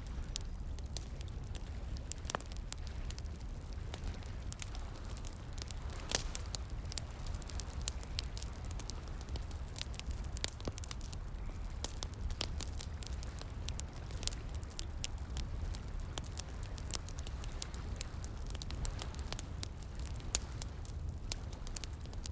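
Wood campfire crackling, with frequent irregular sharp snaps and pops over a steady low rush of running water.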